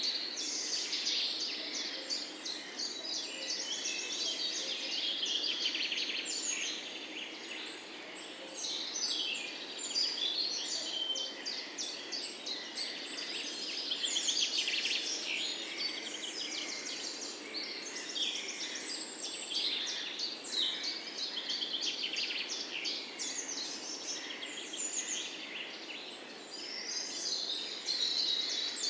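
Many songbirds singing and chirping at once, a dense chorus of overlapping trills and rapid chirps.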